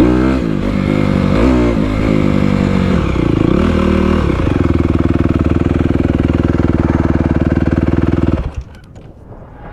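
Honda CRF250R dirt bike's single-cylinder four-stroke engine revving up and down in short blips, then running at a steady pitch for a few seconds. The sound cuts off suddenly about eight and a half seconds in.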